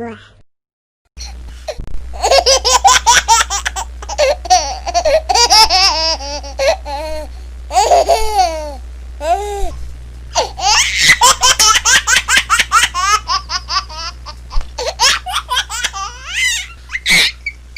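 A baby laughing hard in repeated fits of rapid, high-pitched giggles and squeals, over a steady low hum. The laughter starts after about a second of silence.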